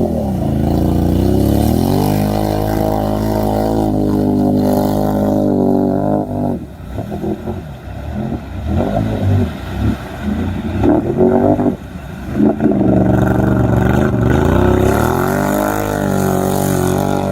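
Off-road mud truck's engine revving hard, its pitch rising and falling. For several seconds in the middle the sound turns choppy and uneven, then the steady high revving returns near the end.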